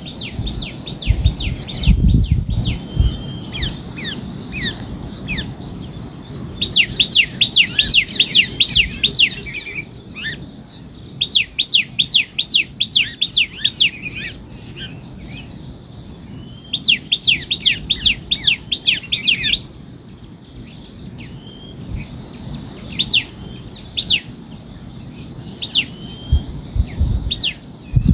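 A bird singing in repeated bouts of quick chirps, about four a second, each bout lasting about three seconds, with scattered single calls between. Low thuds come near the start and again near the end.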